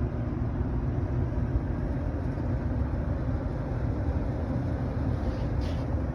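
Rooftop York packaged air-conditioning unit running: a steady low machinery rumble with a constant electrical hum, with a short faint hiss about five and a half seconds in.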